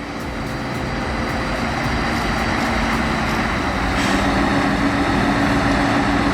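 Heavy truck running, growing louder over the first few seconds, with a steady low engine drone throughout.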